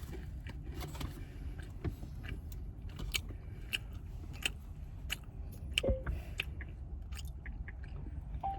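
Someone biting and chewing a crunchy chocolate chip cookie close to the microphone: a string of short crunching clicks over a steady low hum inside a car.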